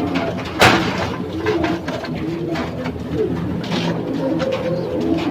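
Racing pigeons cooing, overlapping low calls, with one loud sharp clatter a little over half a second in.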